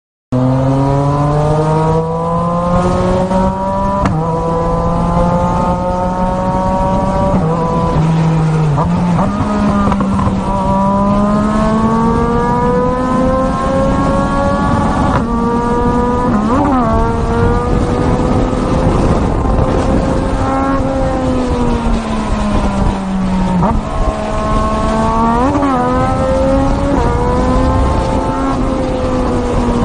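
Racing motorcycle engine running hard at high revs, its pitch rising and falling slowly as the throttle changes, with a few brief quick pitch jumps along the way.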